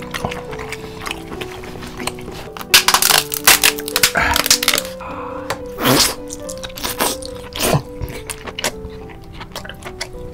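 Close-up eating sounds of king crab and seafood: wet chewing, smacking and crunching, with loud bursts about three seconds in and again near six and eight seconds, over light background music.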